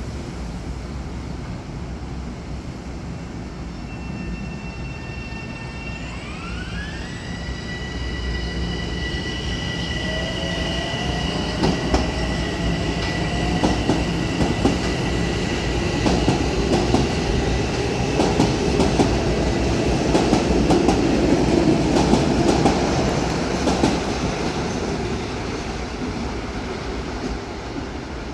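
Metro-North electric multiple-unit commuter train passing, its traction motors giving a high whine that rises in pitch about six seconds in and then holds steady. Clicks of the wheels over rail joints come as the cars go by, and the sound is loudest about twenty seconds in.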